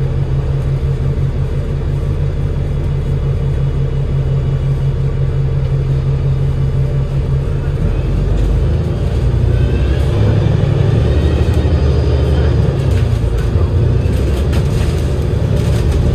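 Double-decker bus's Cummins L9 six-cylinder diesel heard from inside the bus. It runs steadily at first, then from about halfway the bus pulls away and the engine note changes, with a rising whine from the driveline under acceleration.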